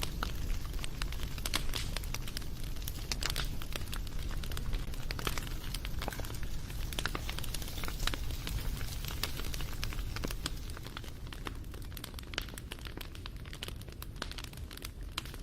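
Wood fire crackling, with many irregular sharp pops and snaps over a steady low rumble of burning. It is a little quieter in the second half.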